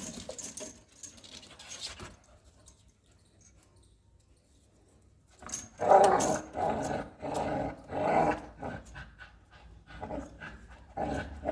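American Pit Bull Terrier growling in a series of short, loud bursts about half a second apart, starting about halfway in, after a quieter stretch.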